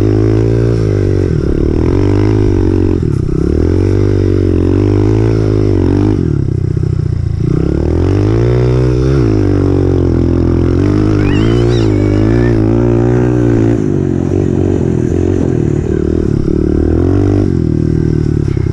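Honda CRF125F dirt bike's single-cylinder four-stroke engine running under way, its pitch rising and falling every second or two as the throttle is opened and closed.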